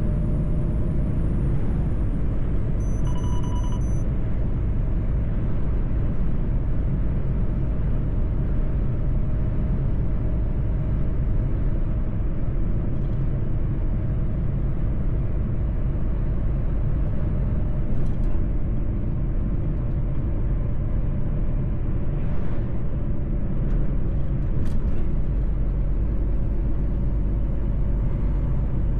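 Mercedes-Benz truck driving at a steady speed: a constant low engine and road rumble, with a short electronic beep about three seconds in and a couple of faint clicks later on.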